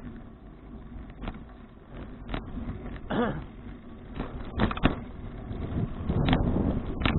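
Bicycle ride noise picked up by an action camera: a steady low rumble with scattered clicks and rattles, a short wavering tone about three seconds in, and louder rumble near the end.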